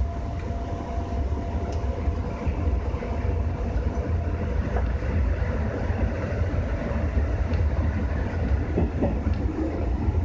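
JR West 201 series electric commuter train running along the track, heard from inside the driver's cab: a steady low rumble of the running gear with occasional faint clicks from the rails.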